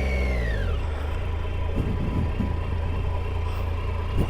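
Triumph Tiger 800 XCa's three-cylinder engine running steadily at low speed, heard through a helmet-mounted camera, with a high whine falling away in the first second.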